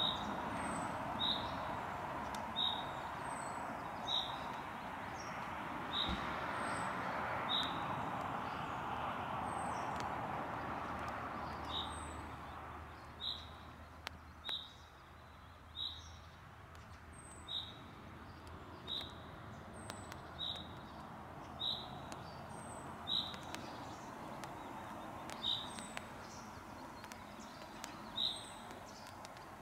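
Light rain falling on a lake and its shore vegetation, a soft even hiss that fades midway and swells again near the end. Over it a bird repeats one short high chirp about every second and a half, pausing for a few seconds in the first half.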